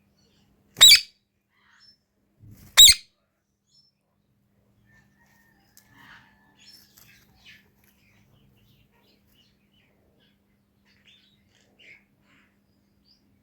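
Pet parrot giving two loud, shrill screeches about two seconds apart, followed by faint soft chirps and small sounds.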